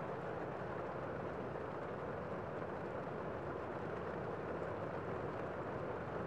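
Gentle rain falling steadily, an even hiss without breaks or standout drops.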